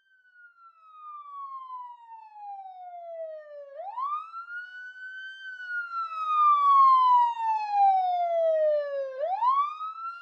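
Siren wail: a single tone that climbs quickly, then falls slowly over about five seconds, then climbs again, twice in a row.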